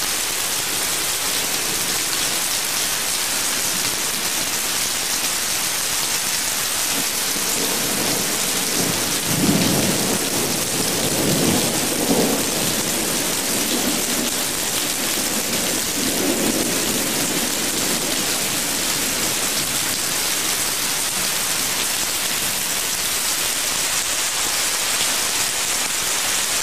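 Thunderstorm: heavy rain falling steadily, with thunder rumbling about ten seconds in and again a few seconds later.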